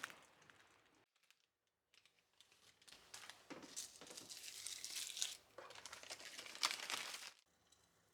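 Crisp crinkling and rustling of something being handled, in two spells separated by a brief pause, after a moment of dead silence about a second in. It stops abruptly shortly before the end.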